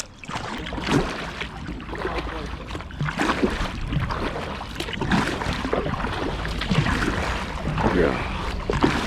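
Kayak on a river: irregular splashes of paddle strokes and water sloshing against the hull, over a steady low rumble.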